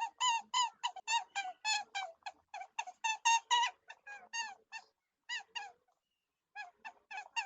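Rabbit squeaking: a rapid series of short, high squeaks, about three a second, that breaks off about five seconds in and then resumes more faintly.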